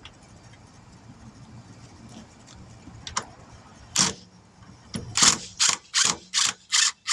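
Impact wrench run in short bursts on a wheel lug nut: one burst about four seconds in, then a quick series of short hammering bursts, two or three a second, near the end. The nut's threads are stripped, so it spins without tightening.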